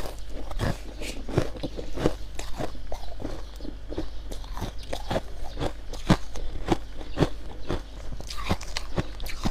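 Mouth chewing white frost close to the microphone: a steady run of crisp crunches, about two to three a second.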